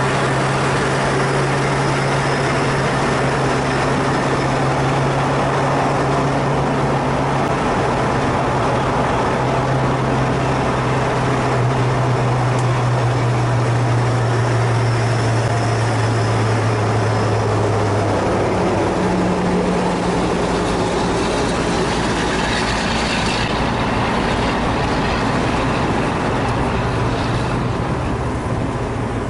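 A 1967 Ford Fairlane GT's V8 engine running steadily at highway speed, with road and wind noise. The engine note shifts about two-thirds of the way through.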